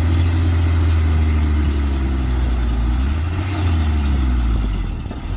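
Heavy diesel vehicle engine running steadily with a deep low drone, its pitch wavering slightly about midway, then fading near the end.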